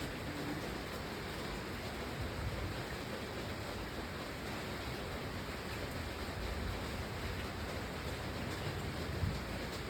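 Steady rain falling, an even hiss with no single drops standing out, with a brief low swell about nine seconds in.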